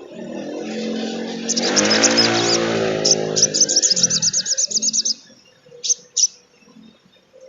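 Sogon trotol sunbird giving a rapid, high-pitched twittering trill of about eight sharp notes a second, then two single sharp notes. Under the first half runs a low droning hum that swells and fades away.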